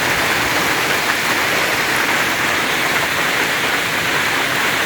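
Heavy rain with hail pouring down in a steady, dense hiss during a severe hailstorm.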